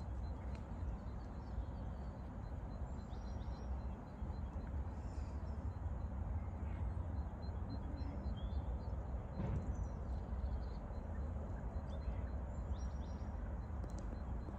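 Outdoor morning ambience: a steady low rumble under scattered short chirps of small songbirds.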